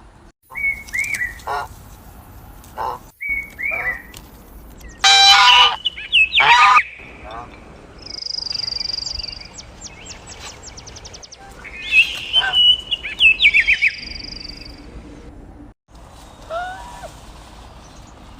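Birds calling: a series of short chirps and calls, the loudest a cluster about five to seven seconds in and another around twelve to fourteen seconds, with a high steady trill in between.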